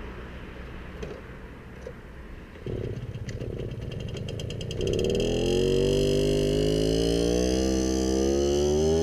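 A small motorbike engine starts running about three seconds in and gets louder, its pitch climbing slowly over the last few seconds.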